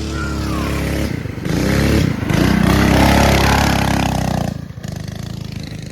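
Coleman mini bike's small single-cylinder four-stroke engine revving up under throttle, pulling loudest through the middle, then dropping back to a low, chugging idle near the end.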